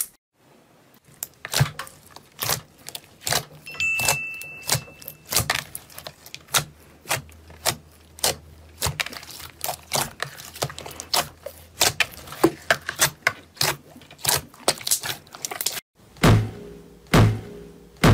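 Slime being squeezed and poked, making many sharp, irregular clicks and pops, several a second. After a brief break near the end, a few heavy thuds come about a second apart.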